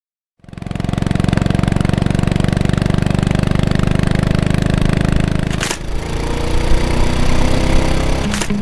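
Kawasaki Meguro S1's air-cooled four-stroke single-cylinder engine running at idle with an even, rapid pulse. Its sound changes abruptly about two-thirds of the way through.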